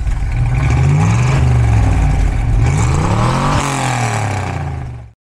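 383 stroker small-block V8 of a 1969 Chevrolet Corvette C3, with headers and a sharp camshaft, running just after start-up and revved once about three seconds in, the pitch rising and then falling back. The sound cuts off suddenly about a second before the end.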